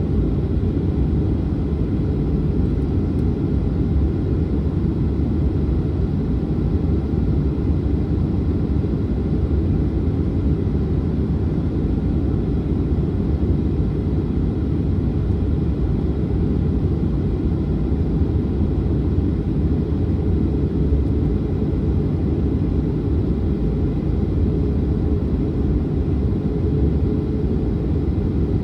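Boeing 737-900 jet with CFM56-7B engines running, a steady low rumble that holds the same level throughout.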